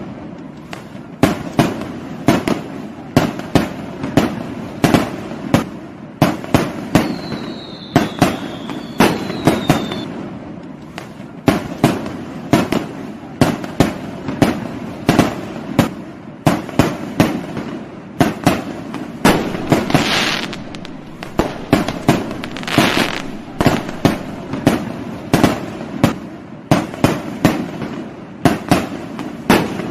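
Fireworks going off in a continuous barrage of sharp bangs, about one to two a second, each with a short echoing tail. A third of the way in two whistles fall in pitch, and about two-thirds through come a couple of crackling hisses.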